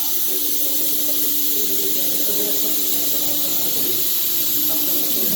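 Plasma torch of a SteelTailor Dragon III CNC cutting machine cutting metal: a steady, high-pitched hiss of the plasma arc, with a steady low hum underneath.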